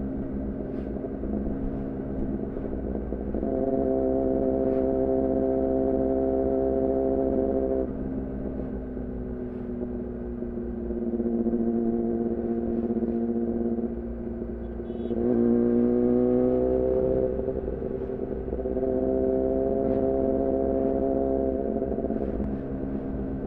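2014 Yamaha R6's inline-four engine through an R9 titanium muffler and Leovince header, running at a fairly steady pitch as the throttle opens and closes in spells. About fifteen seconds in the revs rise quickly for a second or two, then settle back.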